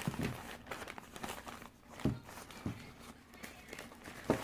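Unboxing handling noise: irregular rustles, light taps and knocks as packaging and a tripod with its bag are handled.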